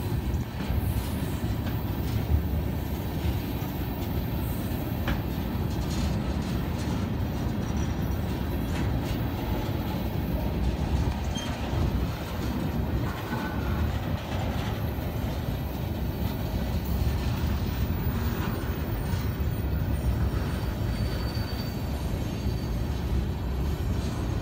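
Tank cars of a CSX manifest freight train rolling past: a steady low rumble of steel wheels on the rails, with scattered clicks as the wheels cross the rail joints.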